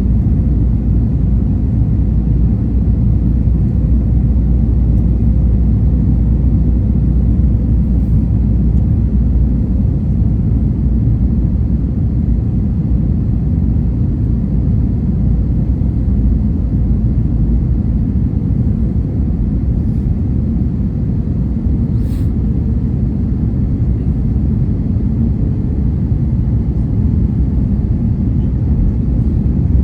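Steady low rumble of an airliner's engines and airflow, unchanging throughout.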